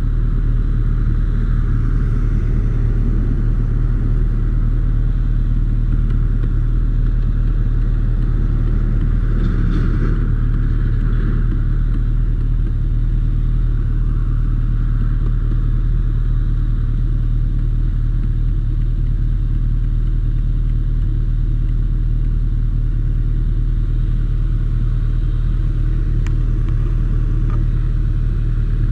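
A vehicle engine idling steadily, an even low hum that neither revs nor changes.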